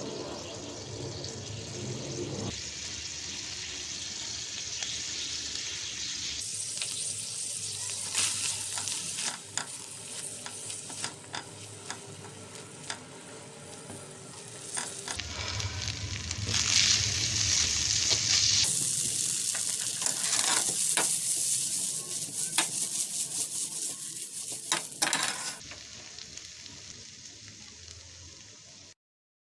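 Sweet corn kernels sizzling in butter in a stainless steel pan while being stirred with a silicone spatula, which scrapes and taps against the pan many times. The frying grows louder in the second half and cuts off suddenly just before the end.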